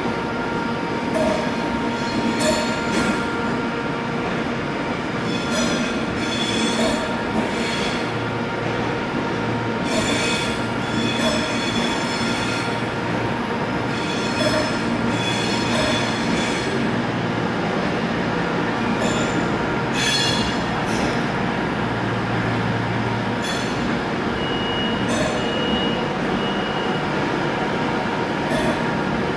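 Class 390 Pendolino electric train rolling slowly into a station platform, with a steady hum and rumble. Short high-pitched squeals come from the train again and again, and one squeal is held for a couple of seconds near the end.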